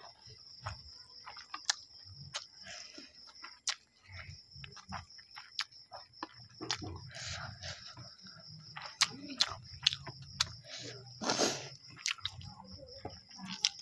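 Close-up mouth sounds of a person eating soft omelette by hand: chewing and biting with many wet smacks and clicks, and one louder, longer smack about eleven seconds in. A steady high-pitched whine runs underneath.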